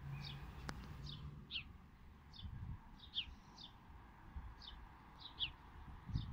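Small songbird chirping: short, high, downward-slurred chirps, often in pairs, repeated every half second to a second.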